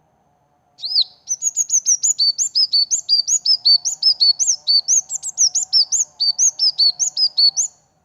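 A small songbird singing a rapid, unbroken run of sharp, high chirping notes, several a second, starting about a second in and stopping shortly before the end.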